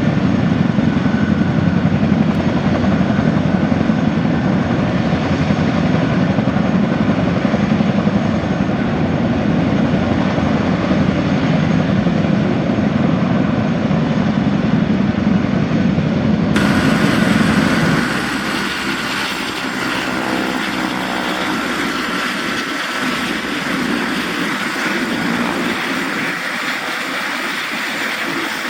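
Boeing CH-47D Chinook tandem-rotor helicopter running loud, a steady low rotor drone with a turbine whine above it. About two-thirds of the way through the sound changes abruptly, the low rotor rumble dropping away and leaving a quieter, higher whine.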